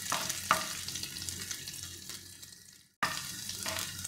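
Sliced onions and green chillies sizzling in hot oil in a non-stick frying pan, being fried until light golden, with a wooden spatula scraping and stirring them. The sound fades and cuts out for a moment about three seconds in, then returns.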